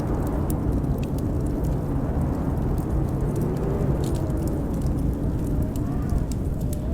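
Blizzard wind blowing in a steady deep rumble with a faint howl that rises and falls in pitch, over a wood fire crackling with scattered sharp pops.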